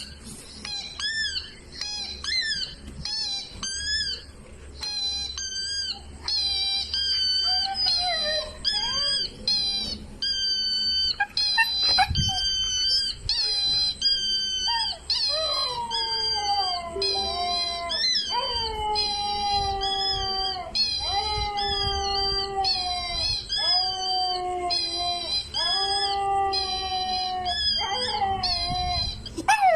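Huskies whining and howling: a quick run of short, high, pitched whines, joined from about halfway through by longer, lower howls that slide down in pitch, about one every one and a half seconds.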